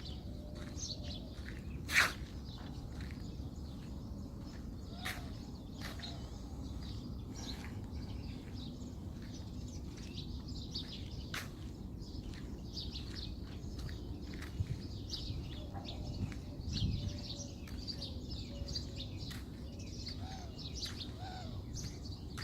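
Small birds chirping and calling here and there over a steady low background rumble, with one sharp click about two seconds in.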